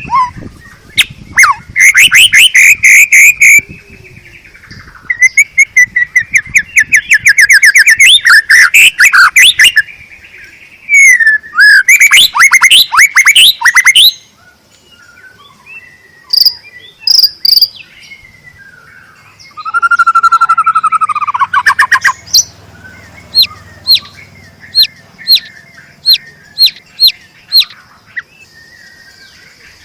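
White-rumped shama (murai batu) in full song: loud, fast trills and rattling phrases in several bursts, then a run of short sharp chip notes, nearly two a second, near the end. A faint steady high hiss runs underneath.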